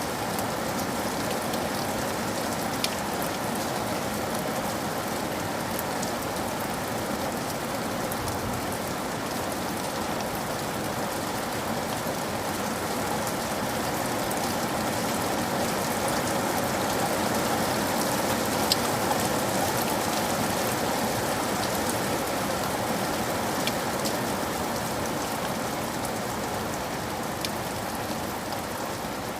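Steady rain falling, an even wash of sound with a few sharp, louder ticks from single drops scattered through it.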